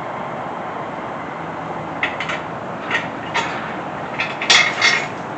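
Ratchet wrench clicking in short, uneven bursts as a bolt is backed out, over a steady background hiss. The clicks start about two seconds in and are loudest a little before the end.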